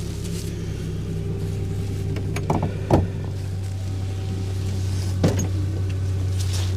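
A vehicle engine idling steadily, with three short knocks: two close together a little before halfway, and one more later on.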